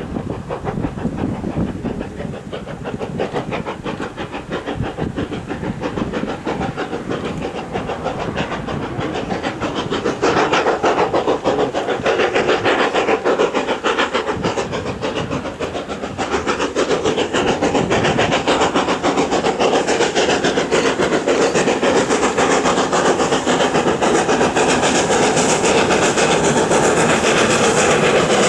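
Steam locomotive working a train past: steady exhaust and steam hiss with rail clatter, getting louder about ten seconds in and again near the second half as it approaches.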